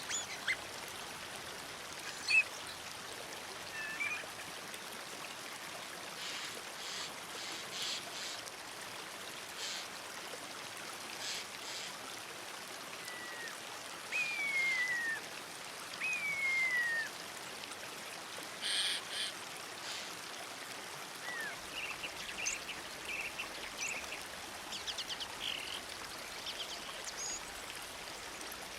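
Songbird calling on and off over a steady hiss: scattered short chirps and trills, with two clear downward-sliding whistles about halfway through.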